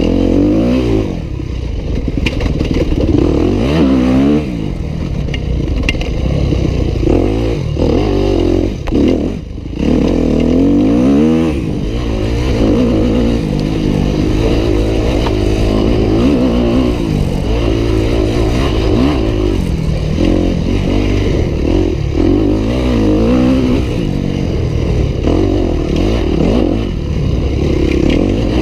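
Yamaha YZ250F's 250 cc single-cylinder four-stroke engine being ridden hard, revving up and falling back again and again as the throttle opens and shuts, with the throttle chopped briefly about nine seconds in.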